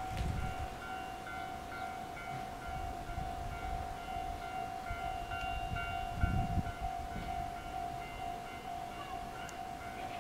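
Japanese level-crossing warning bell ringing in a fast, even repeat, with low rumbles from a passing DE10 diesel freight train, the strongest about six seconds in.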